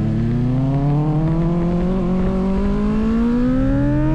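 Motorcycle engine accelerating steadily through one gear, its pitch climbing slowly and evenly, over a low rumble of wind and road noise.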